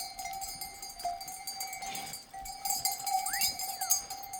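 Bells on a flock of sheep and goats jingling and clanking steadily, with a short rising-then-falling chirp about three seconds in.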